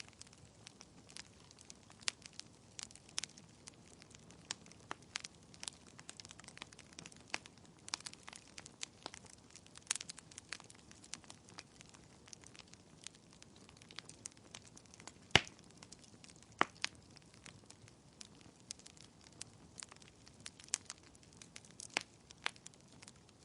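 Wood fire crackling: irregular sharp pops and snaps over a faint low hiss, with one louder pop about fifteen seconds in.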